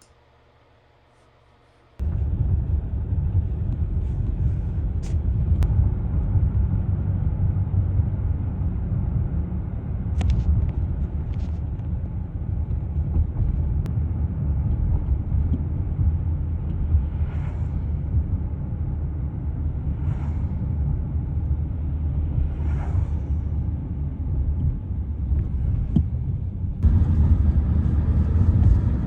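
A steady low rumble with a hiss over it, starting abruptly about two seconds in and growing louder near the end.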